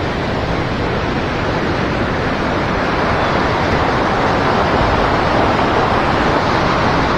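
Steady rush of river water flowing over shallow rapids, growing slightly louder toward the end.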